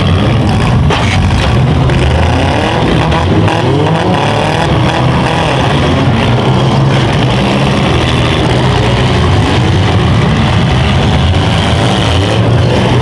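Several small-car engines revving hard at once in a demolition derby heat, their pitches rising and falling over each other, with a few sharp knocks of impacts in the first few seconds.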